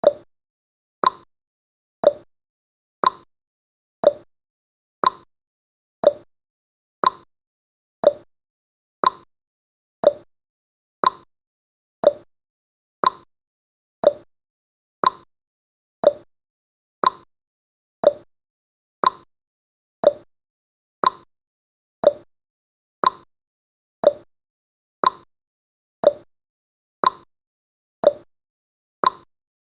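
Countdown timer's ticking sound effect: short, evenly spaced ticks that alternate between a higher and a lower tone, like a clock's tick-tock.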